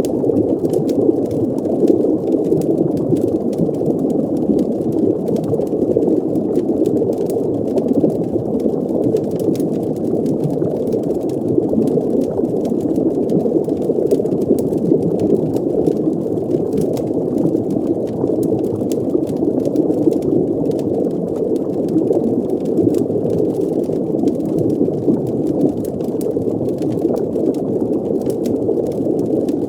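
Steady, muffled underwater ambience: a dense low rushing drone like deep water, with faint scattered crackles on top.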